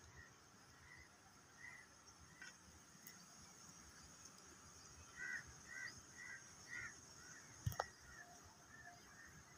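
Faint, short bird chirps repeating at irregular intervals, most frequent in the middle, with a single sharp click about three-quarters of the way in.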